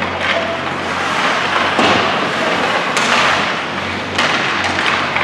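Ice hockey play on the rink: sticks, puck and skates on the ice, heard as several short scraping, knocking bursts about a second apart, over a steady low hum.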